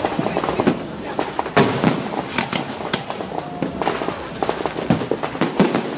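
Fireworks going off in a dense, irregular volley of bangs and crackles, with sharper reports about a second and a half in and again near the end.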